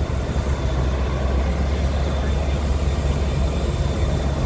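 Engine idling: a steady low rumble.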